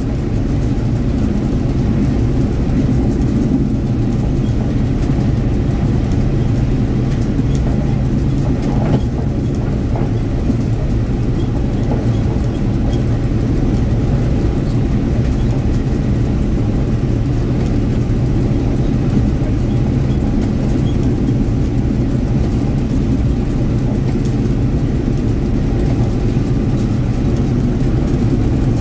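Diesel train running steadily along the track: a constant low engine drone over the rumble of wheels on the rails.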